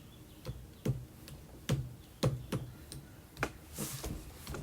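A string of light knocks and clicks, roughly two a second, from handling the reassembled Onewheel Pint as it is switched on, with a brief hiss a little before the end.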